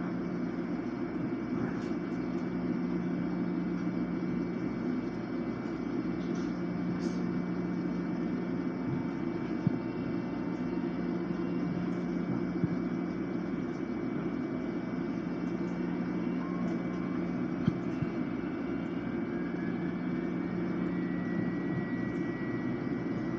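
Steady interior drone of an LIRR M7 electric railcar: a low hum with a faint high-pitched tone over it and a few light clicks. Near the end a faint whine rises in pitch over several seconds.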